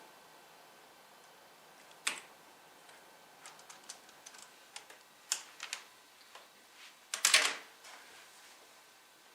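Irregular clicks and taps of typing on a computer keyboard, with a louder clatter about seven seconds in.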